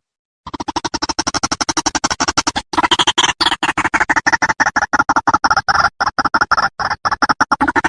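White-breasted waterhen (ruak-ruak) calls played as a bird-luring recording: a fast stutter of harsh notes, about ten a second, starting half a second in. There is a brief break near three seconds, and the notes are louder after it.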